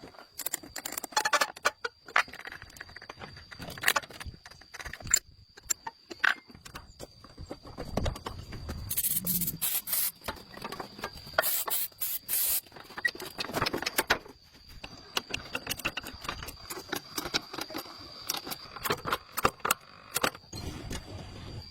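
Hands-on repair work on metal parts: irregular clicks, knocks and scrapes, with two short hissing spray-like bursts near the middle, over a faint steady high whine.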